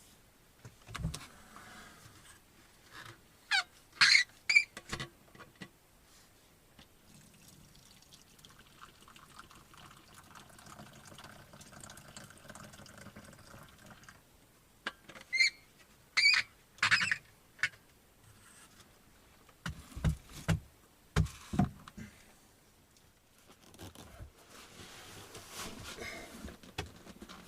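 Scattered sharp clicks and a few dull knocks with soft rustling in between, as things are handled and moved about in a small room.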